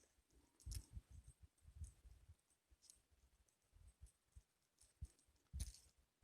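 Faint, irregular clicks and soft low knocks, a few seconds apart, the loudest near the end.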